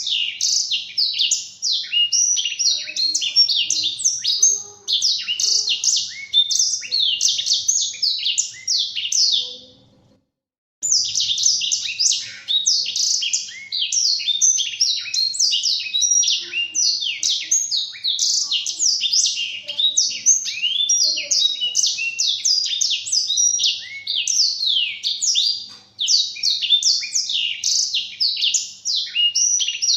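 Blackthroat (black-throated canary) singing a fast, continuous, high-pitched twittering song of rapid trills and chips, broken by one short pause about ten seconds in.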